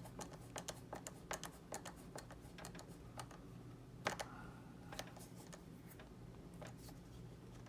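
Faint, irregular small clicks and ticks of a small precision screwdriver turning a tiny screw into plastic model parts, with a louder click about four seconds in, over a steady low hum.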